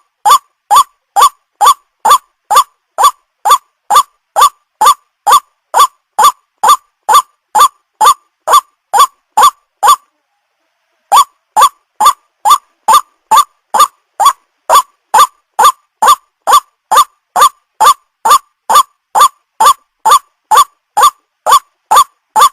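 White-breasted waterhen call used as a lure: an even, fast series of short 'ruak' notes, about three a second. The series breaks off for about a second near the middle, then resumes.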